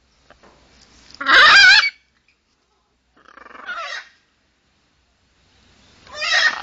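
Parrots squawking three times, harsh calls that waver in pitch: a loud one about a second in, a quieter one in the middle and another near the end. The birds are squabbling with each other.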